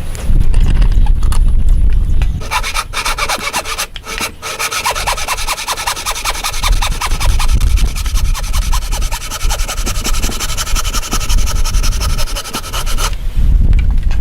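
A hand tool rasping on wood in a rapid, steady run of strokes, starting about two and a half seconds in and stopping abruptly near the end; before it there is a low rumble.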